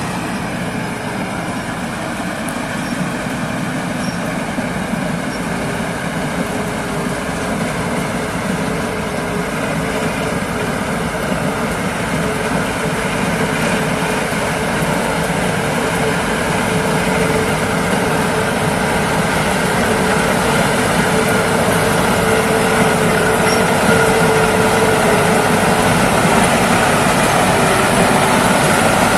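Rice combine harvester running steadily with a dense mechanical drone, growing gradually louder.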